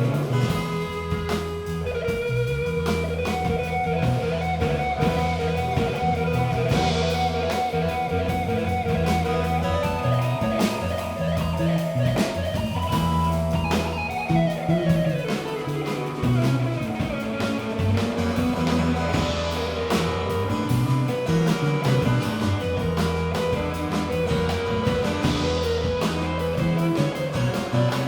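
Live band playing an instrumental passage: guitar lead over bass and drum kit, with a long downward slide in the lead near the middle.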